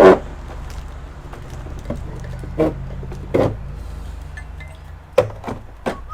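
Sharp clicks and knocks of hard plastic and metal parts being handled and set down while taking apart an all-in-one computer, the loudest right at the start and several more in quick succession near the end, over a steady low hum.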